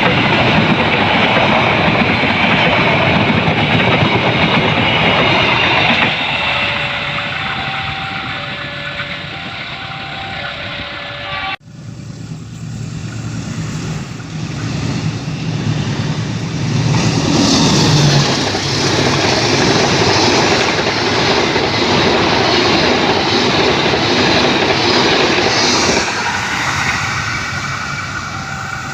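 Trains speeding past, a loud rumble and clatter of wheels on rail that fades away; after an abrupt cut about a third of the way in, another train comes up and passes loudly. Where the train noise dies down, a level-crossing warning bell rings in a steady two-tone alternation.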